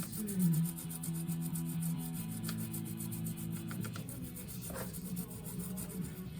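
Brush scrubbing chain cleaner into a motorcycle drive chain in rapid back-and-forth strokes, with background music underneath.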